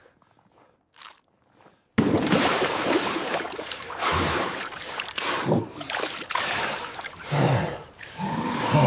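Water sloshing and splashing in a cold-immersion tub as a person moves in it, starting suddenly about two seconds in after near silence.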